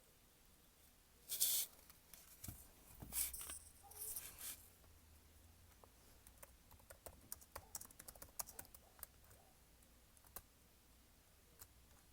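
Faint light tapping and clicking, like typing: a few brief handling noises in the first five seconds, then a quick run of small clicks.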